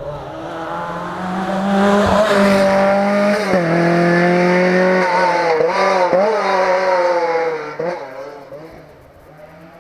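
A rally car's engine running hard as the car drives past at speed. The note builds as it approaches and is loudest for several seconds, with a few brief drops and recoveries in pitch. It then fades away as the car moves off.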